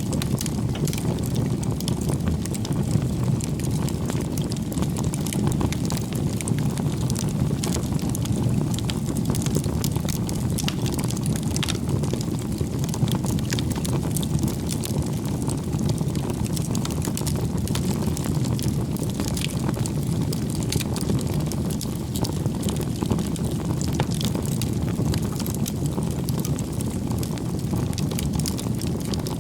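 Bonfire of firewood burning: a steady low rush of flame with many small crackles and pops from the wood.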